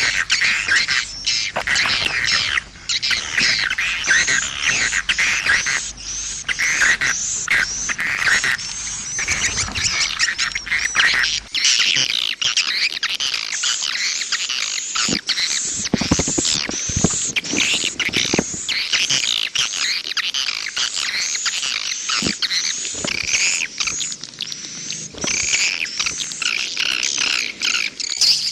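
Swiftlet lure call: a dense, unbroken chorus of short, high chirps and twitters of swiftlets. It is the kind of recording played in a swiftlet house to call the birds in to nest.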